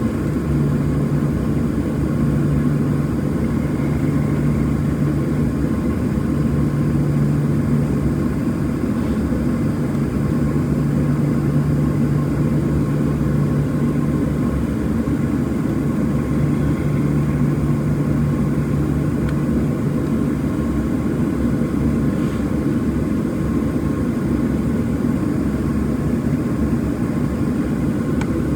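Steady jet engine and air noise heard inside the cabin of a Boeing 737-700 with CFM56 engines, with a low hum that drops in and out every few seconds.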